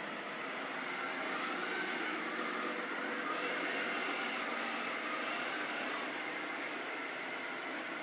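Robot vacuum cleaner running: a steady machine whir with faint whining tones.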